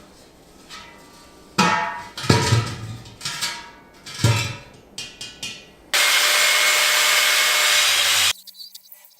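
Four sharp knocks with a short ring after each, like tools or metal parts being handled. Then a power tool runs steadily for about two seconds and stops abruptly.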